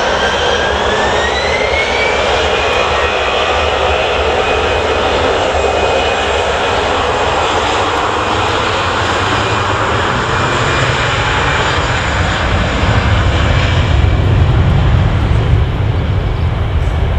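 Jet airliner's engines spooling up to take-off thrust: a loud whine rises in pitch over the first two or three seconds and then holds steady, while a deep rumble builds and grows louder over the last few seconds.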